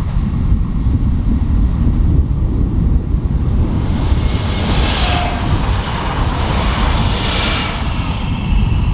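A passing train on an electrified mainline: a steady low rumble, with a rush of wheel-on-rail noise that swells in the middle and fades again.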